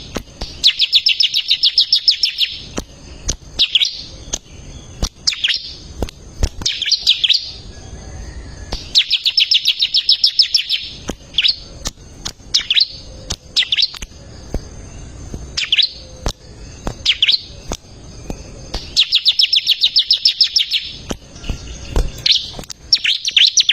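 A ciblek (bar-winged prinia) singing energetically. Fast, buzzy trills of about two seconds come again and again, with short sharp chirps in between. Faint clicks are scattered through it.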